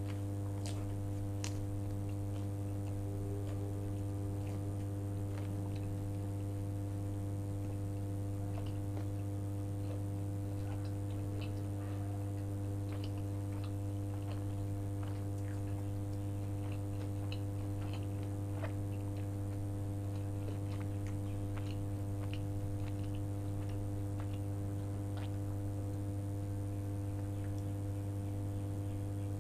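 Close-miked chewing and biting of food, faint wet clicks scattered throughout with a few sharper bites about a second in. Under it runs a steady low electrical hum, the loudest thing throughout.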